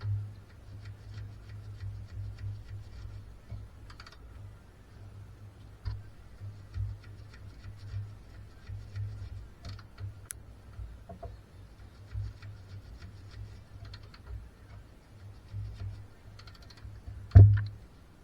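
Many light, irregular clicks and taps over a steady low hum, with one loud knock near the end.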